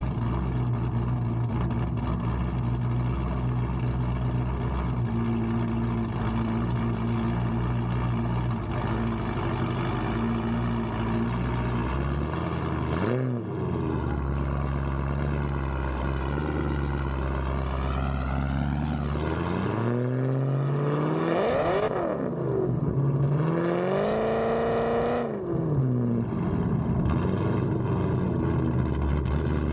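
Car engine idling steadily, then revved several times, its pitch climbing and falling back: once about 13 seconds in and twice more between about 20 and 26 seconds, before it settles back to idle.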